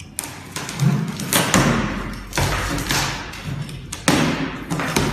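A cardboard box being opened and its contents handled: a series of thuds and knocks with rustling of cardboard.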